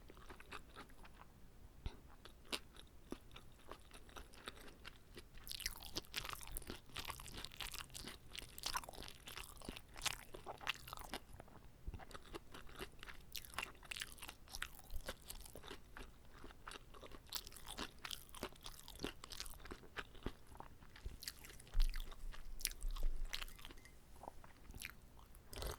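Someone chewing and biting into a whole gimbap roll, with irregular wet crunching and clicking mouth sounds. A couple of louder low thumps come about three-quarters of the way through.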